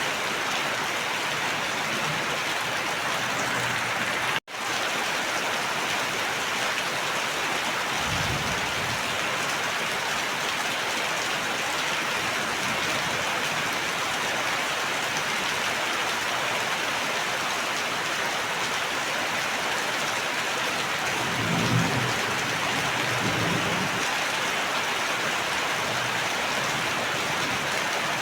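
Steady heavy rain pattering on surfaces, with a few low rumbles around eight seconds in and again past twenty seconds. The sound cuts out for a split second about four seconds in.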